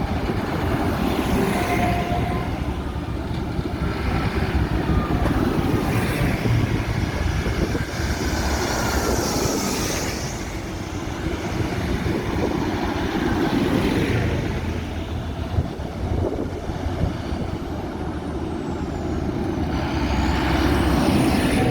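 A procession of tractors driving past one after another, their engines swelling and fading as each goes by.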